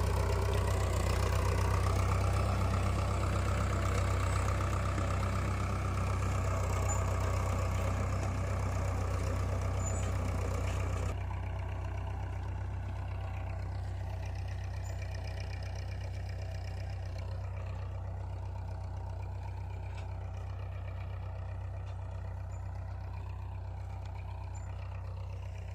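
Tractor engine running steadily with a low, even drone. About eleven seconds in the sound turns abruptly duller and a little quieter, while the engine keeps running.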